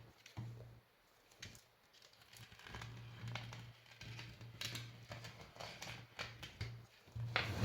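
Utility knife cutting and scraping through the plastic wrapping of a lithium-ion battery pack, with crinkling and small clicks, louder briefly near the end.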